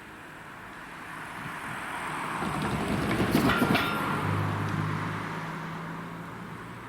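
A train passing at speed: its rumble swells, peaks with a quick clatter of wheels over rail joints about halfway, then fades away with a low hum trailing off.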